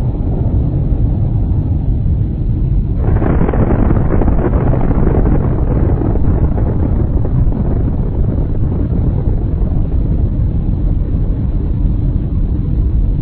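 Steady low rumble of a vehicle driving, with a sudden rush of wind-like noise about three seconds in that fades over the next few seconds.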